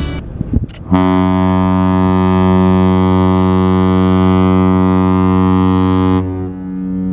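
Ship's horn of the 400 m container ship EVER ALP sounding one long, deep blast of about five seconds: a departure salute as the ship leaves port. The blast starts about a second in and cuts off sharply.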